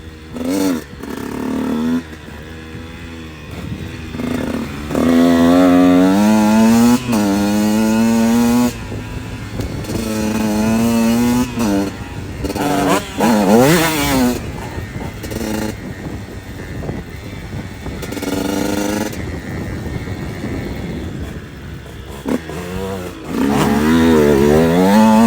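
KTM 125 SX two-stroke motocross bike ridden hard, its single-cylinder engine revving up and falling away again and again as the throttle is opened and closed. There are quieter stretches of lower revs between the pulls.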